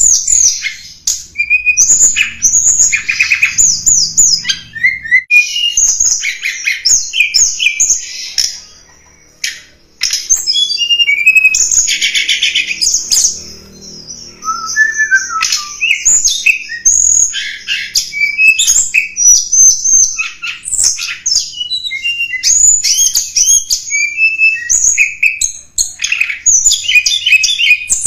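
Tledekan gunung lure-call recording: a small songbird singing rapid, high chirps, trills and short whistled glides in quick succession, with a brief pause about nine seconds in.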